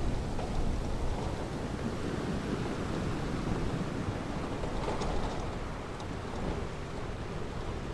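Ocean surf on a beach: a low, steady rush of water between breaking waves, with a faint wash of a wave about five seconds in.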